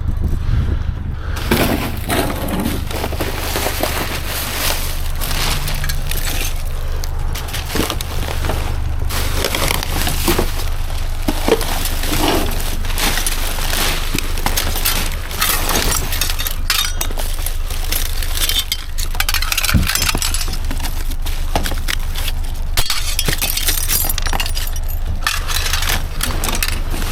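Junk in a dumpster being dug through and shifted by hand: irregular clinks, clatters and crunches of debris knocking together, over a steady low hum.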